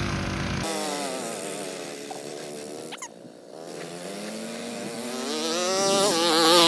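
Small mini bike engine revving. An abrupt change less than a second in gives way to a tone that drops in pitch and fades, then climbs steadily in pitch and loudness to its loudest near the end.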